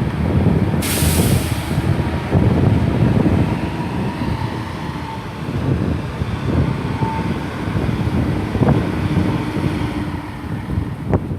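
Class 158 diesel multiple unit coming into a platform, its engine and wheels making a steady low rumble. A short burst of air hiss comes about a second in, with a few faint squeals and sharp clicks later.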